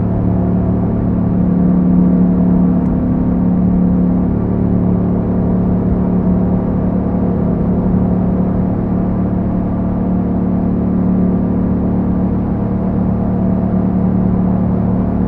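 Yamaha MT-07's parallel-twin engine running through an Akrapovic exhaust at a steady, nearly unchanging engine speed, as when cruising on the road.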